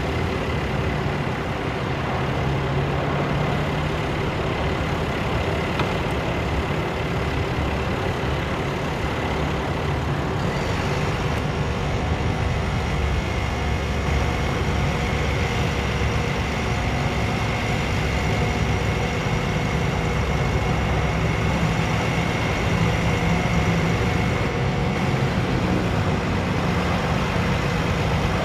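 International DT466 diesel engine of a heavy bucket truck running steadily, with a thin high whine over it that shifts in pitch about ten seconds in.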